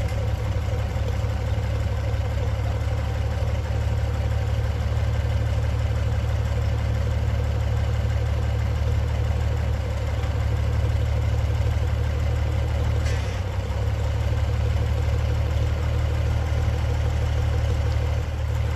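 Engine idling steadily with a low, even rumble, with a short knock about two-thirds of the way through.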